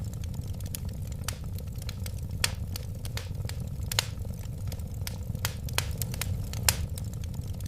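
Wood fire crackling: irregular sharp snaps and pops, a few louder than the rest, over a steady low rumble of the flames.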